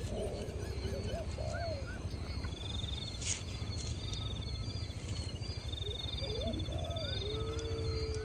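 Birds calling outdoors: short rising and falling chirps, with a high rapid buzzy trill twice and a held note near the end, over a steady low rumble. A single sharp click about three seconds in.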